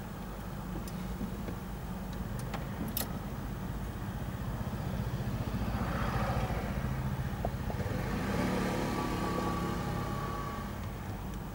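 Car engine idling, heard from inside the cabin, as a motorcycle comes up from behind and rides past, loudest from about six to nine seconds in.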